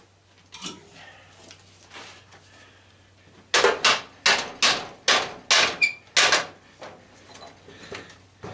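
Hammer blows on the metal body of an old belt/disc sander being broken apart for scrap: a few light knocks, then a quick run of about eight hard strikes, roughly three a second, about halfway through.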